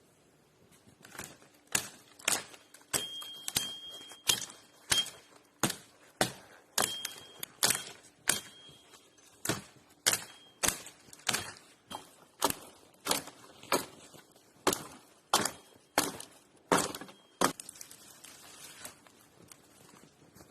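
A long run of sharp knocks or thunks at a steady pace, about three every two seconds, with a faint ringing after some of them, stopping a few seconds before the end.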